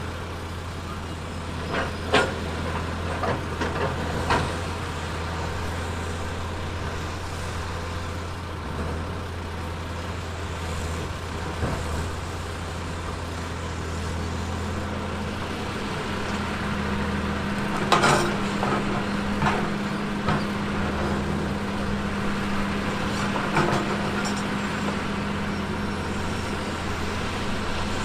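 Heavy earthmoving machine's diesel engine running with a steady low drone, with scattered sharp metallic clanks and knocks.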